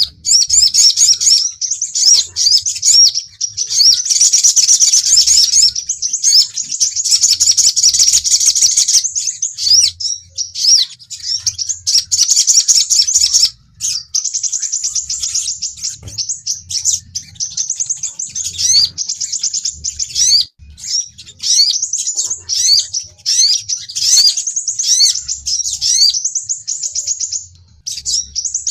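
Sunbirds (sepah raja and sogon) giving fast, high-pitched chirps and twitters in quick repeated rising notes, almost without a break. This is a lure call, the kind played to draw wild birds in or to provoke caged ones into singing.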